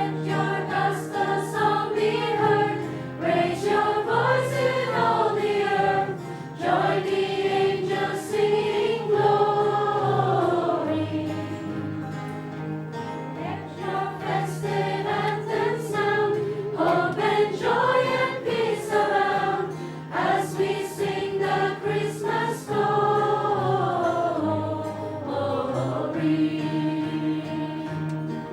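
A group of voices singing a worship song together, with strummed acoustic guitars holding steady chords underneath.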